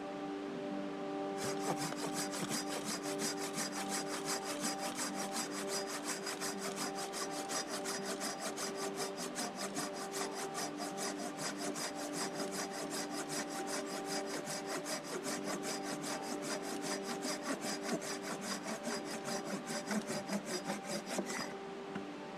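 Handsaw cutting wood in quick, even strokes, about three or four a second. Stops shortly before the end. Over soft background music with sustained tones.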